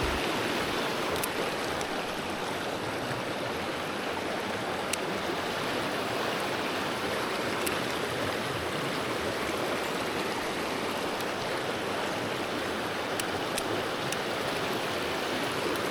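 Mountain stream water rushing steadily, an unbroken wash of flowing-water noise, with a few faint high ticks scattered through it.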